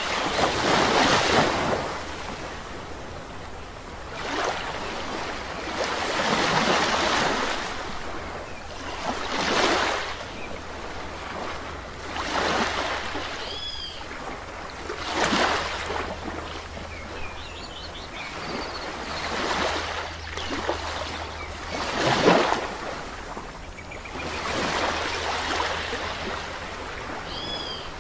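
Small waves breaking and washing up on a shore, a surge every two to three seconds. A bird gives a short call twice, about halfway through and near the end.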